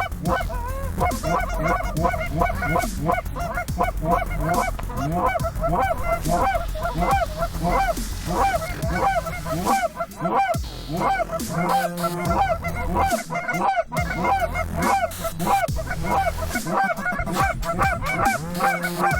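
A large flock of geese honking, many overlapping calls going on without a break, over a steady low rumble.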